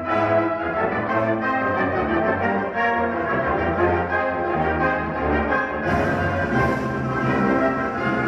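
Ensemble music with brass instruments prominent, sustained notes over a low bass line; about six seconds in, the sound gets brighter and fuller.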